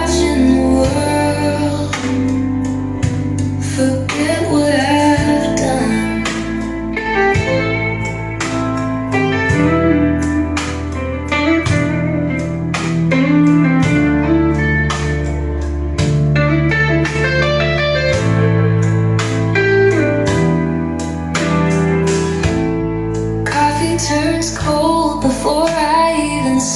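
A song with guitar, bass and singing, played back through a pair of PSB Image 5B bookshelf speakers.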